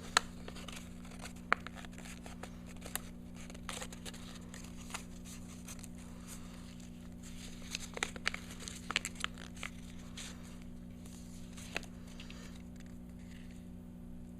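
Sheet of origami paper being folded and creased by hand: irregular crinkles and crackles with a few sharp snaps of the paper, busiest a little past the middle, over a steady low electrical hum.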